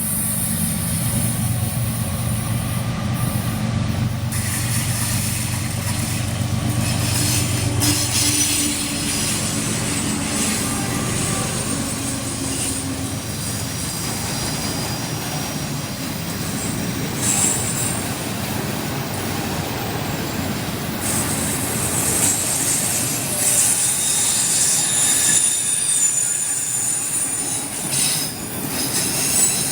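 A train passing close by. A steady low engine drone from the locomotives fades after about twelve seconds, and the cars roll on past with a continuous rumble and high-pitched wheel squeal.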